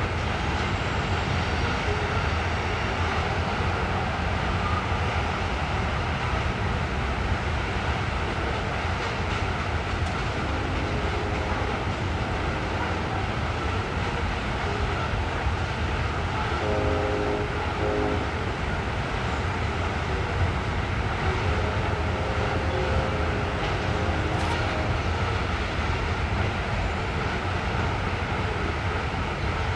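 Freight train of open-top hopper cars rolling past, its wheels running steadily on the rails. The locomotives' horn at the head of the train sounds faintly in several blasts, the clearest about seventeen seconds in.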